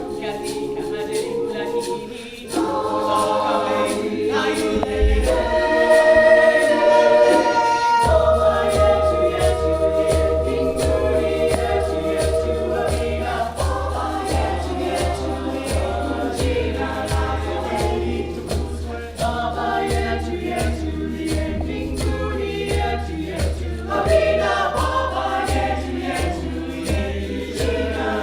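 Community choir singing in harmony, with a steady low beat coming in about eight seconds in.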